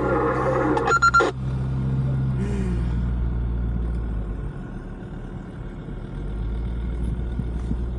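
A 4x4's engine running, heard from inside the cabin as a steady low hum that eases off slightly in the middle and then picks up again.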